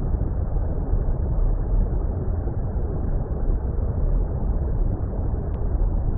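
Steady, deep water rumble: an even, muffled wash of noise heaviest in the bass, with no highs and no changes.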